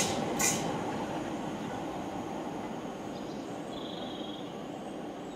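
Irish Rail 8300 class DART electric multiple unit dying away after passing, its rumble fading steadily, with one sharp clank about half a second in.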